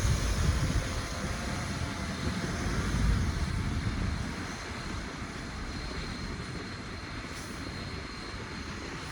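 Heavy earthmoving machinery running: a steady low engine rumble with a broad noisy wash over it, a little louder in the first three seconds, then easing.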